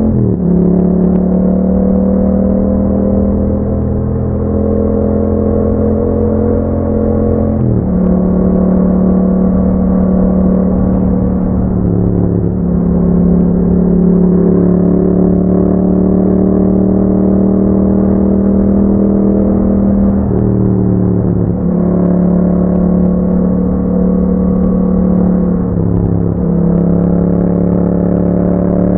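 2021 Yamaha MT-07's 689 cc parallel-twin engine running through an Akrapovic exhaust with dB killers, under way at a steady cruise. The engine note briefly dips and settles again about five times.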